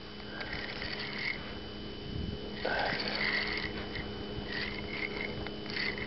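Fishing reel being cranked in short spells as a hooked bass is reeled toward the boat, over a steady low hum.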